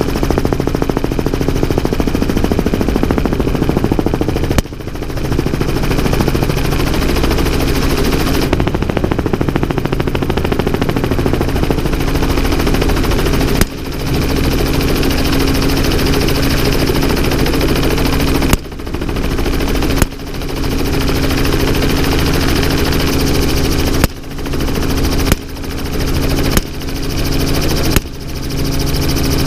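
Helicopter running steadily while a gun is fired from it, eight single shots at uneven spacing, mostly bunched in the second half. Each shot is followed by a brief drop in the helicopter noise.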